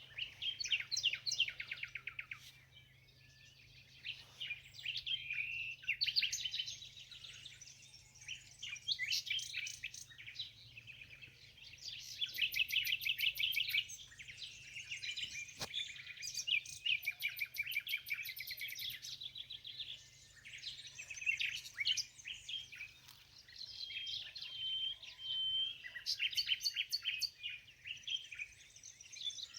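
Several songbirds singing and calling together: rapid trills and chirps, one song overlapping another, with a few short whistled notes.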